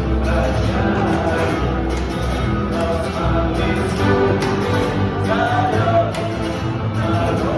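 Guitar strummed in a steady rhythm with a voice singing over it.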